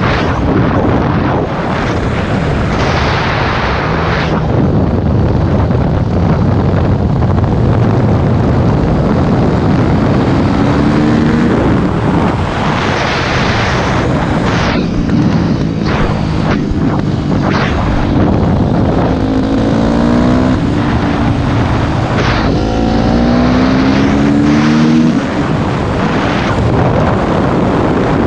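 Yamaha YZ250F dirt bike's single-cylinder four-stroke engine revving hard under acceleration, its pitch climbing in several short runs as it shifts up through the gears, with heavy wind noise on the microphone.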